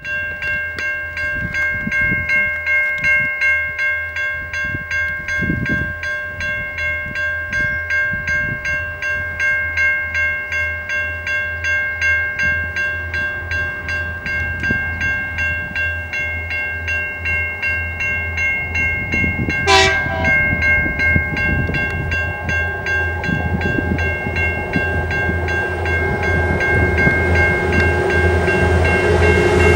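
Diesel-hauled grain train approaching, growing louder toward the end, under a steady high ringing that pulses in a regular beat. A short sharp sound about twenty seconds in.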